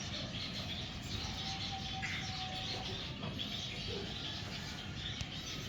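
Small finches chirping and twittering continuously over a steady low background rumble.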